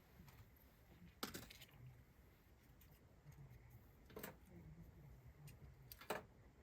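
Campfire crackling softly: scattered small ticks from the burning wood and three sharper pops, about a second, four seconds and six seconds in.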